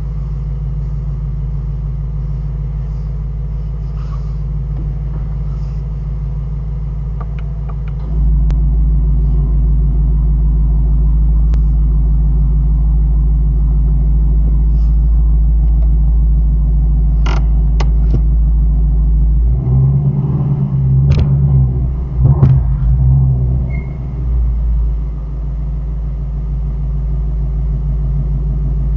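A 2018 Shelby GT350's V8 engine running with a steady low hum that grows louder about eight seconds in. Past the halfway mark come a few sharp clicks and a louder, uneven stretch of rumble, then the steady hum returns.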